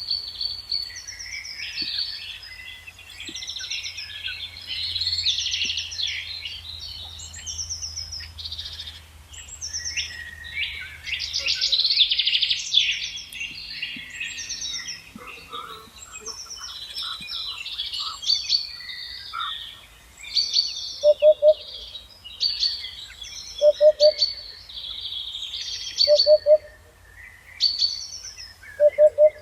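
Several songbirds singing at once, a dense chorus of overlapping chirps and trills. From about twenty seconds in, a short, lower, louder note repeats every two to three seconds.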